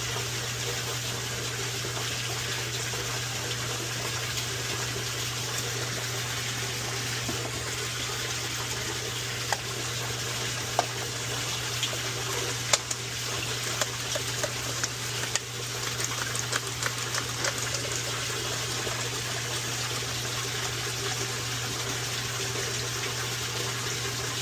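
An electric pump running with a steady mains hum while water rushes and gushes through it, as a sewage pit is pumped out. Scattered small clicks and knocks come in the middle.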